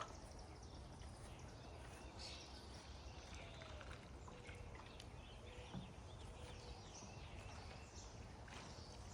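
Faint outdoor ambience with small birds chirping in short, scattered calls.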